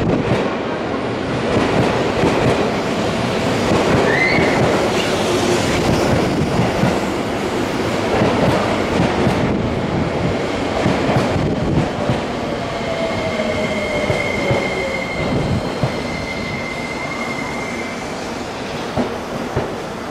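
Seibu Ikebukuro Line electric train moving along the platform, wheels clicking over rail joints and points, with a thin, steady wheel squeal in the second half.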